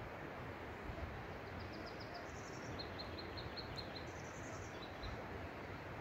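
A small songbird singing: several quick runs of short, high, repeated notes, over a steady rushing background noise.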